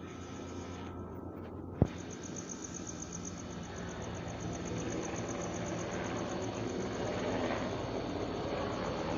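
Crickets chirping in a fast, steady pulse over a broad engine rumble that swells toward the end and then eases. A single sharp click comes about two seconds in.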